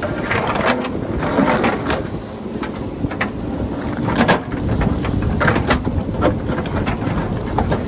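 JCB backhoe loader's diesel engine running under load, with repeated sharp knocks and clatters as the bucket cuts into rock. Wind buffets the microphone.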